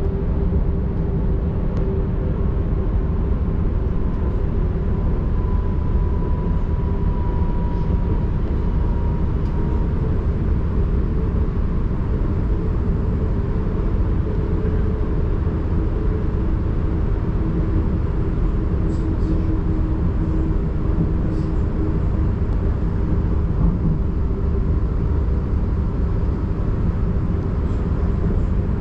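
Passenger train running along the line, heard on board: a steady rumble with a few faint whining tones, one of them slowly falling in pitch in the first third.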